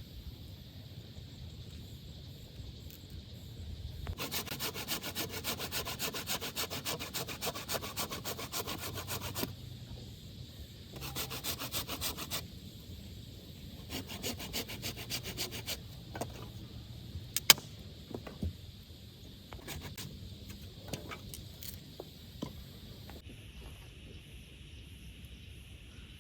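A hand saw cutting through wood in three bouts of quick, steady strokes. Scattered sharp knocks follow, one much louder than the rest.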